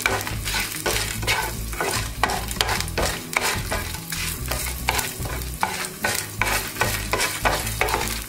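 Chana dal, urad dal and dried red chillies sizzling in hot oil in a nonstick pan, with a spatula stirring them in repeated quick scraping strokes.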